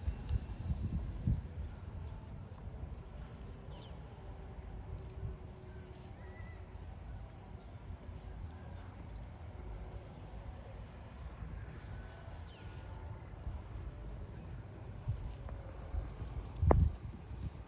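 Insects trilling steadily in a continuous high-pitched chorus over a low outdoor rumble, with one sharp thump near the end.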